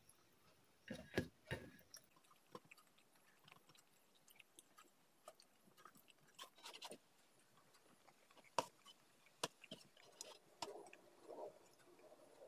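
Faint mouth sounds of someone eating rice and curry by hand: quiet chewing with scattered short lip smacks and clicks, a few louder ones about a second in and again later.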